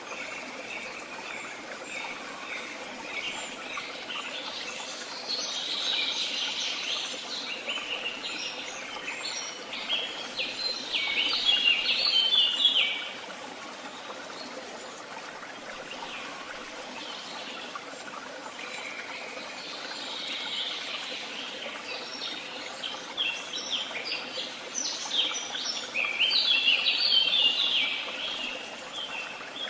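Woodland songbirds singing in two long stretches of rapid chirps, each building to a loud, fast trill before breaking off, over a steady faint hiss.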